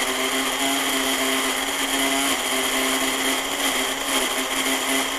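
Countertop blender motor running at a steady pitch, blending a liquid mix of olive oil, lemon juice, garlic and parsley.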